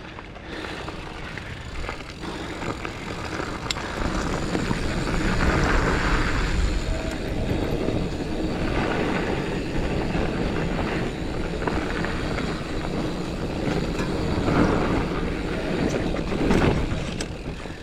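Mountain bike descending a dirt singletrack: knobby tyres rolling and crunching over dirt and rocks with a steady low rumble, and scattered knocks from the bike over bumps.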